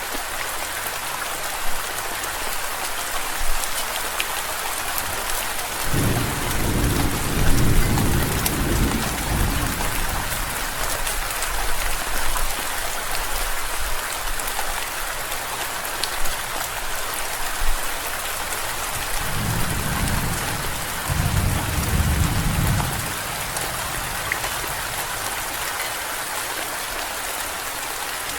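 Steady rain hissing, with a few sharper drop ticks. Two low rolls of thunder: one about six seconds in lasting a few seconds, and a second, broken into two swells, about twenty seconds in.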